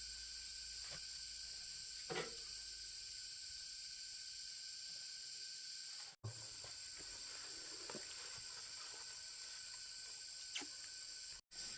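Steady high-pitched hiss with a few faint knocks. The sound drops out completely twice, briefly, about six seconds in and near the end.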